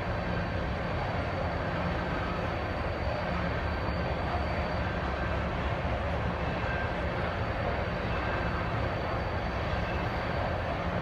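Norfolk Southern crude oil train of tank cars rolling past in a steady, continuous rumble of wheels on rail.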